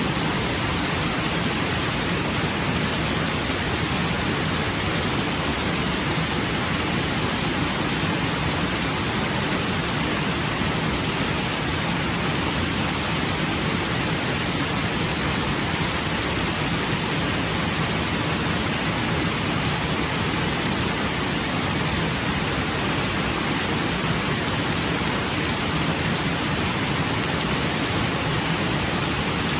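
Steady, even rainfall, a constant hiss of rain with no breaks or distinct drops.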